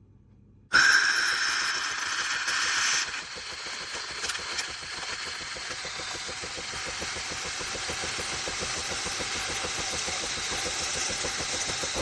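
The built-in coffee grinder of a Philips 4300 Series espresso machine starts suddenly about a second in and grinds steadily. It is louder for the first two seconds or so.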